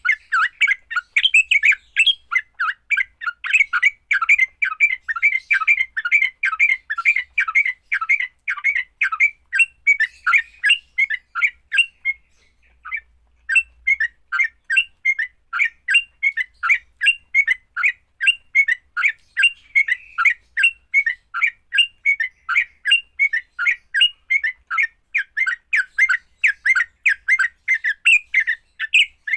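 Yellow-vented bulbul (trucukan) giving its fighting call: a long run of short, harsh chattering notes, about three or four a second, with one brief break about twelve seconds in.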